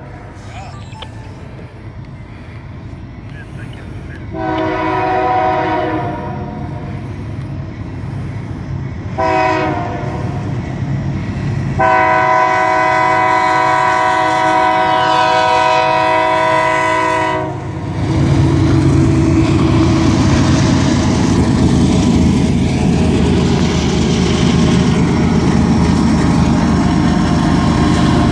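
BNSF diesel freight locomotives sounding their horn as they approach: the end of a blast fading at the start, then a long blast, a short one, and a long one held about five seconds, the long-long-short-long pattern sounded for a grade crossing. From about eighteen seconds in, the locomotives' engines and the wheels of the covered hopper cars rumble and rattle loudly past.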